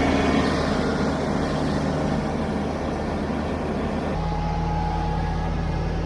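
Kubota BX compact tractor's small three-cylinder diesel engine running steadily, its low note shifting to a new steady pitch about four seconds in.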